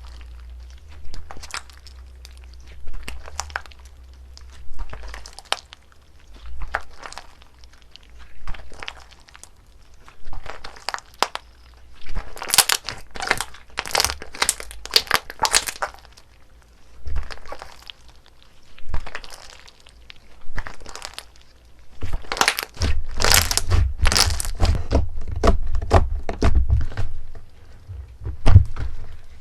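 Slime being pressed and squeezed by hand, making crisp crackling and crinkling sounds. It starts with a squeeze about every two seconds, then gets denser, and near the end it becomes a louder, continuous run of crunchy crackling.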